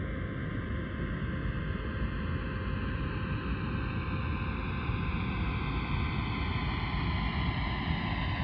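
Computer-simulated sound of a jet aircraft flying overhead, generated with NASA's Aircraft Noise Prediction Program: a steady rushing noise with a few held tones and a slowly falling, hollow sweep, growing slightly louder as it comes closer.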